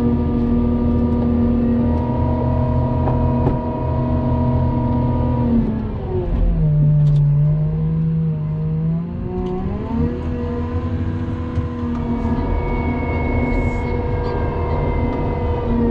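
Engine of a snow-plowing vehicle running steadily. About six seconds in its revs drop, stay low for a few seconds, then rise again near ten seconds. A faint high whine joins it near the end.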